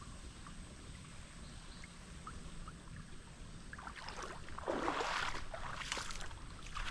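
Creek water sloshing and splashing for a couple of seconds from about halfway through, louder near the middle. Before that there is only quiet outdoor background with a few faint chirps.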